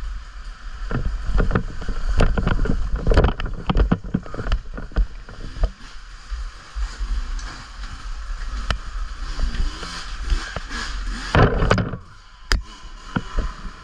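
Wind rumble on a bike-mounted camera's microphone while riding an off-road bike over rough trail, with many knocks and rattles from the bumps. A short lull comes about twelve seconds in.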